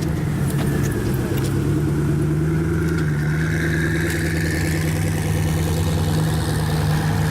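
Tesla driving on a road, with steady road and tyre noise and a low hum.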